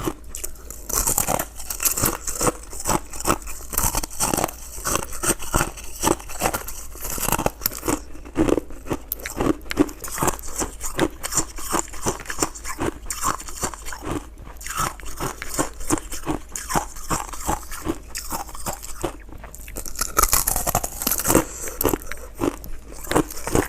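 Close-miked crunching and chewing of shaved ice, with rapid, irregular crunches several times a second throughout.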